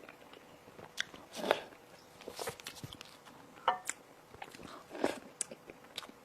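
Close-miked eating: irregular crunchy bites and chewing of food, with a few louder crunches about a second and a half in and again about five seconds in.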